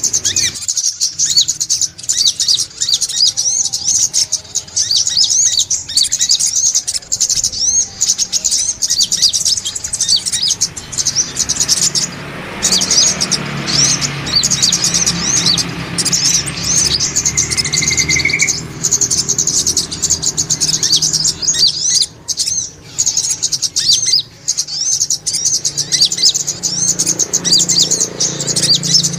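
Brown-throated sunbirds chirping rapidly and without pause in thin, high notes.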